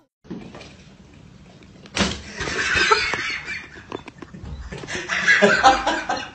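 A person laughing hard in a small room, starting about two seconds in and coming in two bouts.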